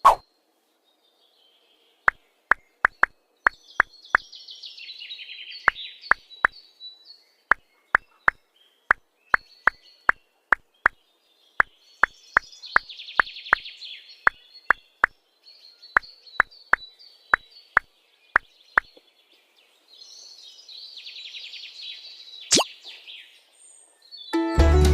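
A long, uneven series of short, sharp plops, one or two a second, with bursts of high bird-like chirping between them; music comes in right at the end.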